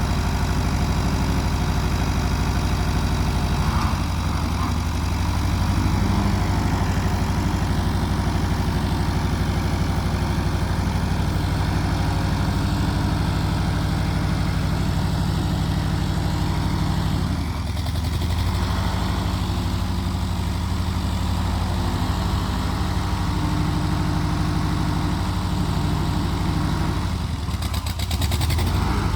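Allis-Chalmers farm tractor engine idling steadily as it warms up after a cold start, its note shifting briefly a few times.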